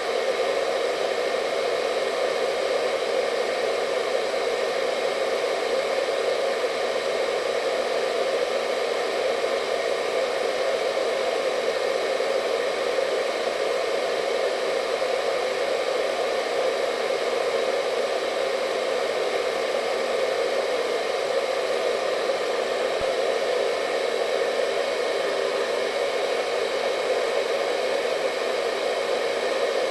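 Hair dryer running steadily: an even rushing of air with a faint motor whine, no change in pitch or level.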